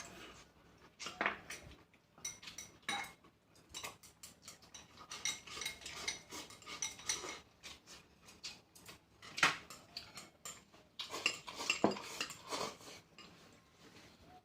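Eating utensils clinking and scraping against bowls and plates in irregular taps, some clinks ringing briefly; the loudest knocks come about halfway through and again near the end.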